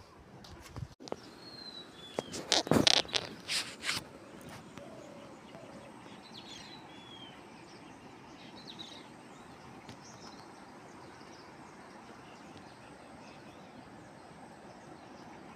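Open outdoor ambience with a steady hiss and a few short, downward-sliding bird chirps. A burst of sharp knocks or clacks comes early, between about two and four seconds in, and is the loudest thing.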